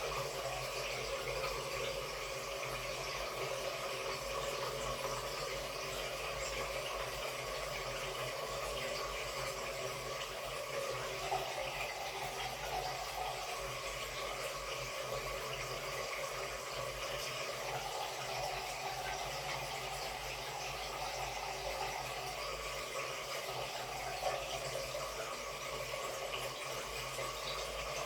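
Samsung Wobble 14 kg top-loading washing machine running a wash with a comforter inside: a steady motor hum under the churning and sloshing of water.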